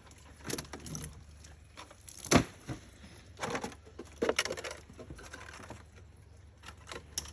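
Handling noise from water jugs being picked over for recovered bullets: scattered knocks and rustles, with one sharp knock about two and a half seconds in.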